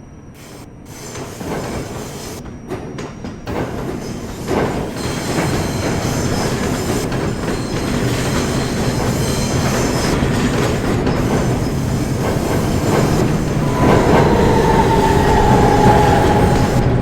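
New York City Subway train running on the rails and getting steadily louder, its wheels clacking over rail joints. Near the end a wheel squeal whines and falls in pitch.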